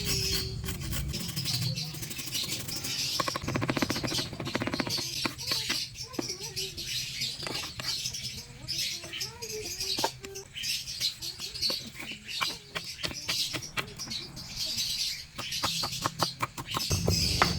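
Lovebirds chirping and chattering in high, shrill calls, with many sharp clicks and taps and a quick run of rapid clicking a few seconds in.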